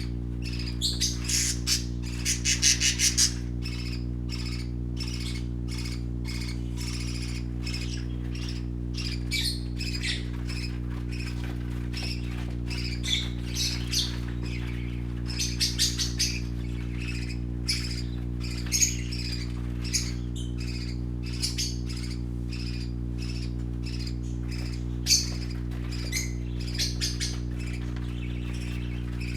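Baby parakeets chirping and squawking in many short, quick calls that come in clusters, over a steady low hum.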